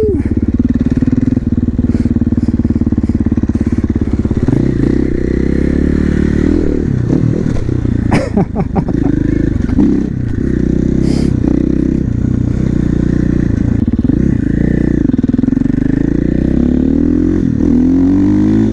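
A 450 supermoto's single-cylinder four-stroke engine running while the bike is ridden. Its note holds steady for the first few seconds, rises and falls with the throttle about halfway in, and climbs near the end as the bike accelerates.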